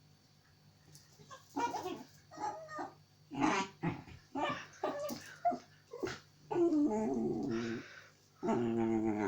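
Puppy vocalizing: a run of short, pitched calls starting about a second and a half in, then two longer drawn-out calls of over a second each near the end.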